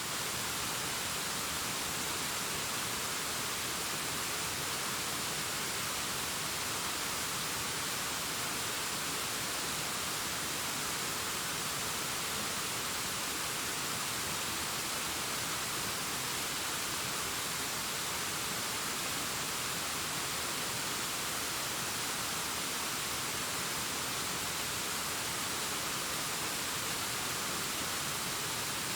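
Distant waterfall cascading down a rockface: a steady, even rush of water, heavier in the high pitches than the low.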